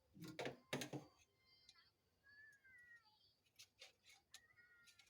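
Glass fridge shelves being handled during washing: two short clattering knocks about half a second apart near the start. Faint high squeaks that slide in pitch follow, about two seconds in and again near the end.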